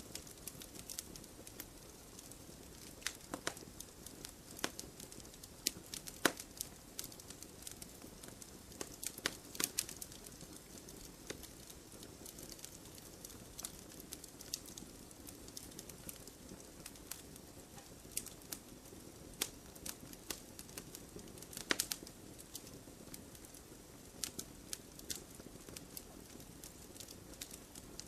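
Wood fire crackling: a steady low hiss with irregular sharp pops and snaps, a few louder ones about six seconds in and near twenty-two seconds in.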